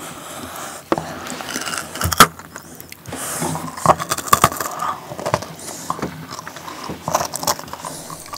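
Close-miked crunching of white-chocolate-coated freeze-dried strawberries being chewed, with scattered sharp clicks and crackles throughout; the loudest is a little over two seconds in.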